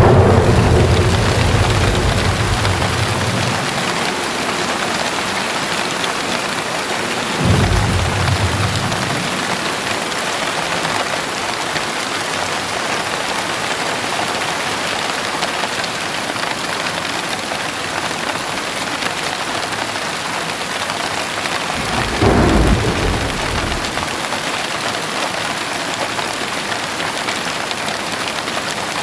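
Heavy rain falling steadily, with thunder: a low rumble fading away over the first couple of seconds, a short rumble about seven seconds in, and another about 22 seconds in.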